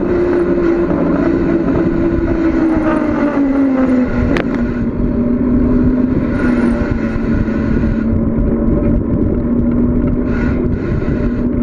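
Wind rushing over the microphone and road noise from a bicycle riding downhill. A humming tone drops in pitch over the first few seconds, then holds steady. A single sharp click comes about four and a half seconds in.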